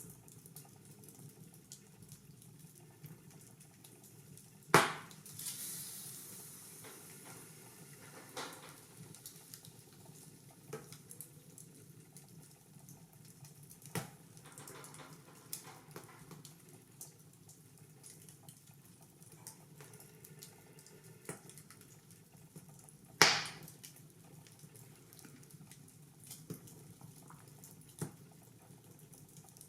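Wood fire crackling in a fireplace: scattered small clicks and ticks, with two loud pops, one about five seconds in followed by a short hiss, and another about two-thirds of the way through.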